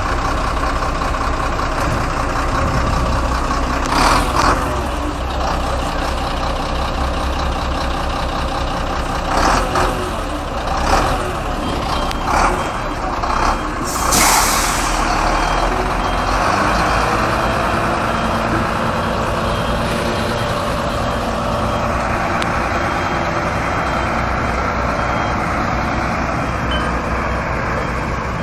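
A heavy truck's engine running steadily, with several short, loud hisses of air about a third to halfway through, and faint high-pitched beeping in the latter half.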